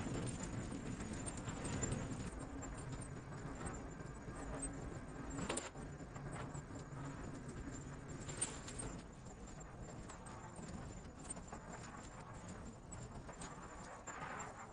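Chickens pecking and moving about, a scatter of small irregular taps and scuffs with a couple of sharper knocks.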